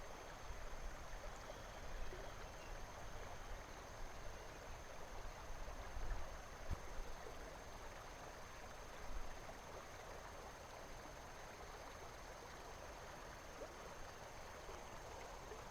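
Faint, steady rush of flowing river water, with a few soft low bumps.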